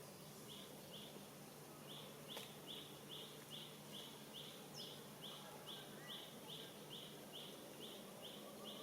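Faint outdoor background with a steady series of short, high chirps, about two a second, starting about half a second in; a single sharp click a little over two seconds in.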